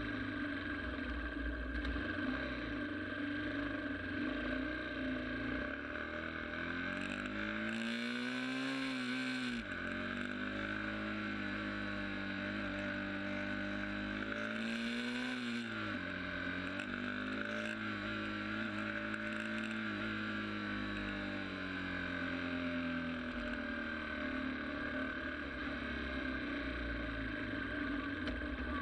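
Motorcycle engine running under way. Its pitch climbs and drops sharply twice, about ten and sixteen seconds in, like accelerating through gear changes, then eases down gradually.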